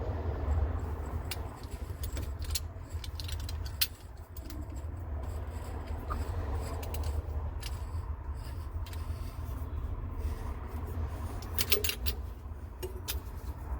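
Temperature and pressure relief valve being threaded by hand into a water heater tank's port: scattered small metallic clicks and light scrapes over a steady low hum.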